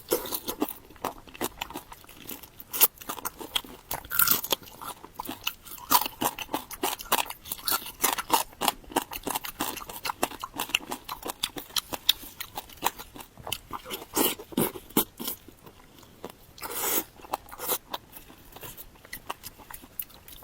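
Close-up crunching and chewing of crisp deep-fried food: a steady run of sharp crackles with a few louder crunchy bites.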